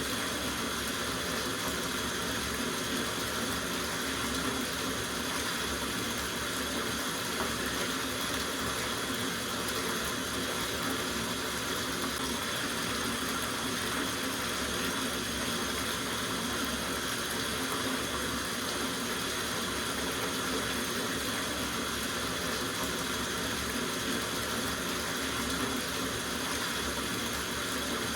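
Tap water running steadily into a soaking bathtub, an even rushing splash that doesn't change.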